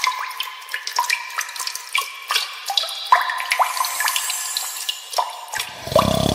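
Water dripping and trickling as if from a tap into a sink, a run of quick plinking drops. About five and a half seconds in, a brief, deeper sound comes in over the drips.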